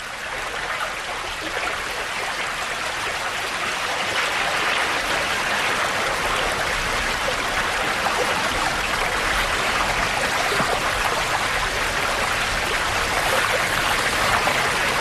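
River water rushing and splashing steadily over rocks in a shallow salmon stream.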